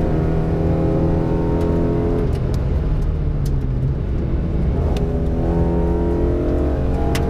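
Mercedes rally car's engine heard from inside the cabin, running hard at a fairly steady pitch that changes a couple of times, with a few sharp clicks.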